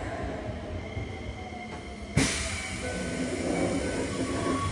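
Keikyu 1500 series electric train running, heard from inside the passenger car: a steady rumble of wheels on rail with steady whining tones from its Toyo GTO-VVVF traction equipment. About two seconds in, the running noise jumps suddenly louder and hissier and stays that way.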